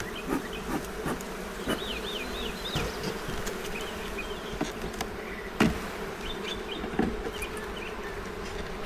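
Honey bees buzzing in a steady, dense hum around an opened hive. A few sharp knocks cut through it, the loudest a little past halfway.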